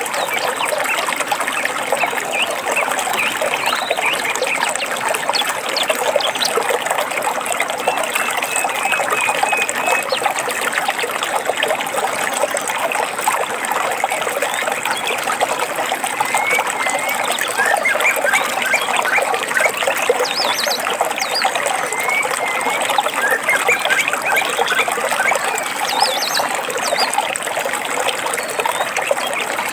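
Water trickling and babbling steadily over stones, with short bird chirps and whistles over it now and then, mostly in the middle of the stretch.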